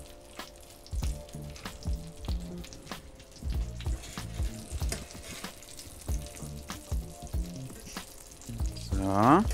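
Chicken breasts breaded with crisps sizzling as they fry in fat in a pan, under background music with a steady beat. A short rising pitched sound comes near the end.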